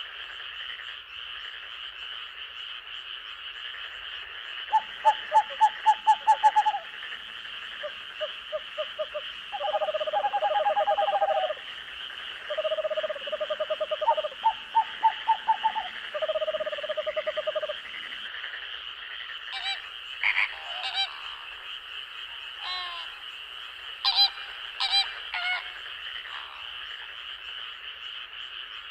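Night-time forest chorus of frogs: a steady high-pitched chorus runs underneath, while from about five seconds in frogs give rounds of rapid pulsed croaks, several trains in turn, until about eighteen seconds. After that come scattered short, higher calls.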